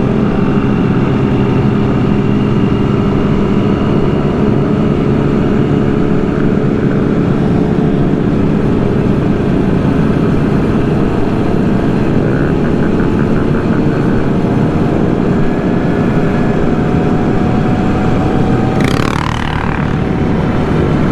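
Motorcycle and mini-bike engines of a riding group running steadily at cruising speed, mixed with road and wind noise. A brief sweeping chirp sounds near the end.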